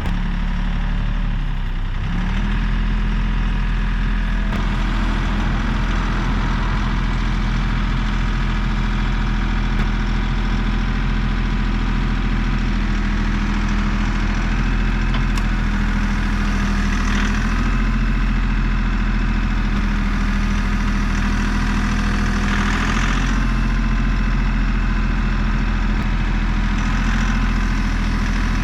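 Kioti CK3510 compact tractor's three-cylinder diesel engine running steadily. Its speed picks up slightly about two seconds in and then holds.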